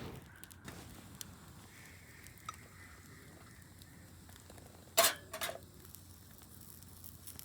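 Sukiyaki ingredients sizzling faintly in a fairly dry pan over the fire, with scattered small crackles. A sharp double clatter about five seconds in.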